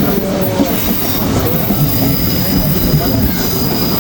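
Train running on rails, a steady rumble with a thin, steady high wheel squeal that comes in about two seconds in.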